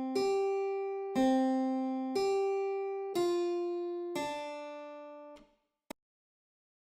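A single pitched instrument playing a slow line of six single notes, about one a second. Each note starts sharply, is bright with overtones, and rings away. The first four swing between a low and a higher note, and the last two step downward. The notes stop near the end, followed by one short click.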